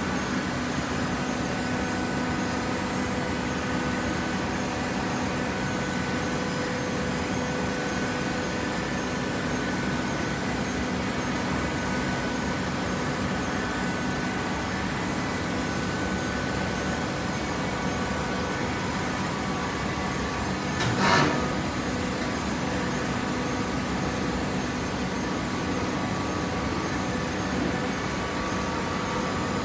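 Hydraulic cardboard baler running with a steady motor hum, with one brief louder knock about two-thirds of the way through.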